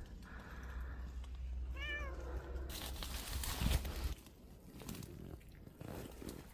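A cat meowing once, a short rising-and-falling call, about two seconds in. A burst of rustling noise with a low rumble follows about a second later.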